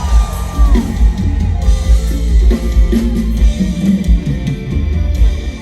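Instrumental band music, drums and bass keeping a steady beat with guitar over it: the band's interlude between sung verses, with no singing.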